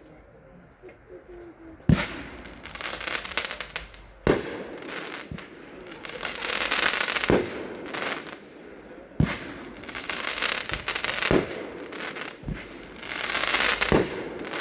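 16-shot 'Killer Donuts' fireworks cake firing: a sharp bang about every two to three seconds, each followed by a second or two of crackling.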